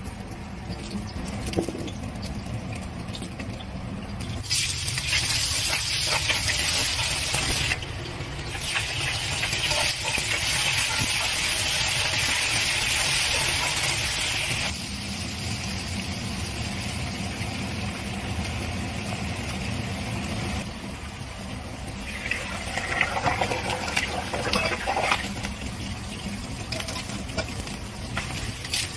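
Hot oil sizzling in an iron wok as food fries: small whole potatoes in oil, then pork pieces stir-fried, with a wooden spatula clattering against the pan. The sizzle swells loud for about ten seconds in the first half, and a steady low hum runs underneath throughout.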